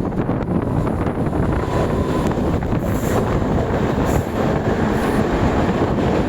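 Moving train's steady rumble of wheels on the rails, with a few faint clicks.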